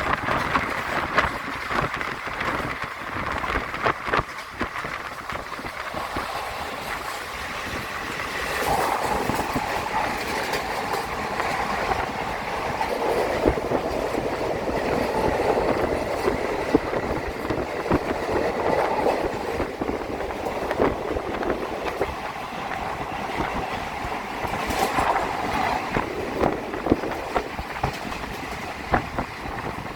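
Train running on rails, heard as steady rushing noise with frequent short clicks and clatter from the wheels on the track.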